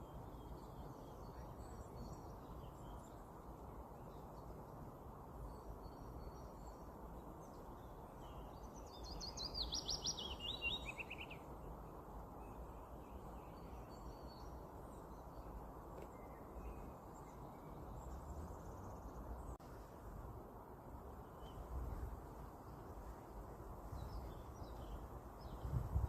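Songbirds singing in a forest: one loud song phrase of rapid notes falling in pitch about ten seconds in, with fainter scattered chirps from other birds over a steady low background noise.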